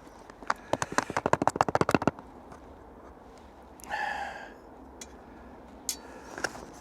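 Spoon stirring a rehydrating dehydrated meal inside its pouch: a quick run of scraping, crinkly clicks for about a second and a half. A short pitched sound comes about four seconds in, followed by a few light clicks near the end.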